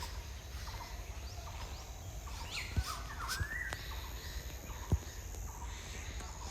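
Small birds chirping and calling in short, scattered notes over a low steady rumble, with two soft thumps a couple of seconds apart.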